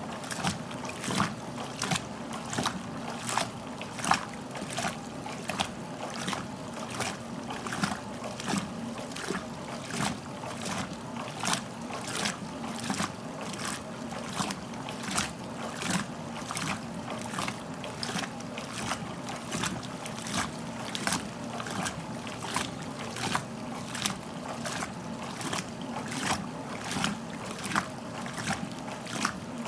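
1969 Westinghouse washing machine agitating: its ramp action agitator throwing the water around in regular swishes, about one and a half to two a second, over a steady motor hum.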